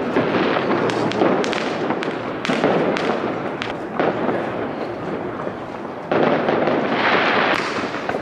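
Many New Year's Eve fireworks going off around: a continuous rumble of nearer and distant bangs and crackling, with a louder hissing rush starting about six seconds in.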